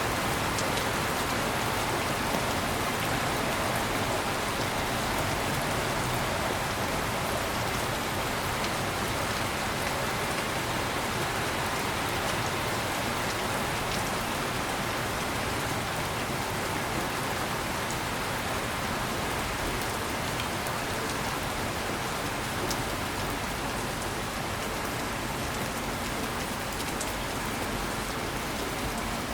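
Heavy rain falling steadily, a constant hiss of drops on surfaces with occasional faint individual drips.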